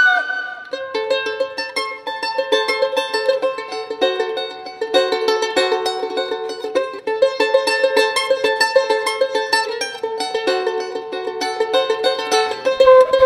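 Charango playing a quick passage of plucked and strummed notes on its own, with no flute over it.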